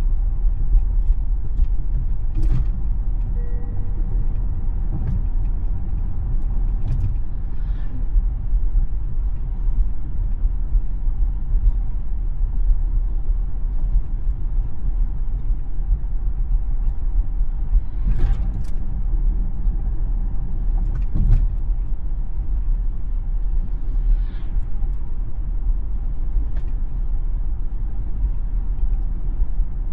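A Tesla electric car driving on local roads: steady low road and tyre rumble, with a few brief knocks spread through it.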